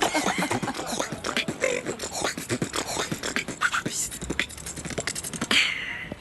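Beatboxing: rapid percussive mouth sounds and clicks in a quick rhythm, ending with a short hissing burst near the end.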